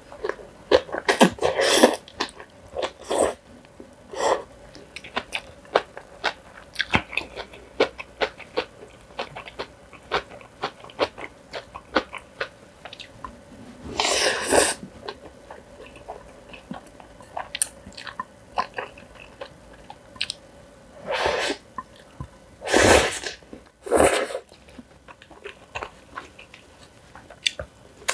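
Close-up eating sounds of kimchi and black bean sauce noodles: many short, crisp crunching clicks from chewing, with a few louder breathy bursts of about a second each, one about a second in, one midway, and several near the end.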